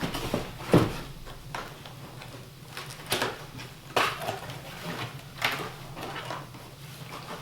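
Objects being handled: a string of separate knocks and scrapes, the loudest about a second in, over a steady low hum.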